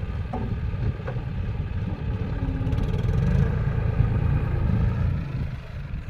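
Tractor diesel engine running steadily with a low rumble and some clatter, a little louder in the middle.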